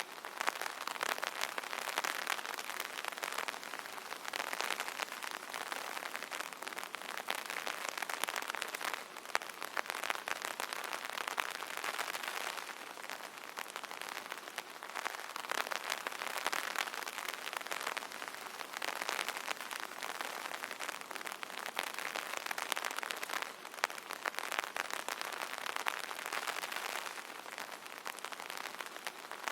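Rain falling on an umbrella: a dense run of drop ticks that swells and eases every few seconds.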